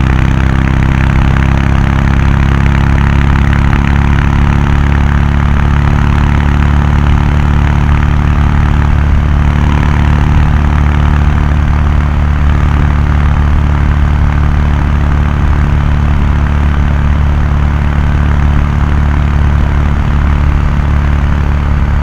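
Kawasaki Meguro K3's air-cooled 773 cc parallel-twin engine and exhaust pulling at expressway cruising speed. The engine note creeps up slightly in the first few seconds, then holds steady.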